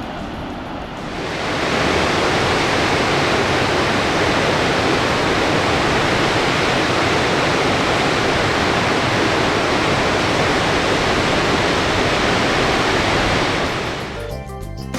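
Loud, steady rushing noise that sets in about a second in and gives way to music near the end.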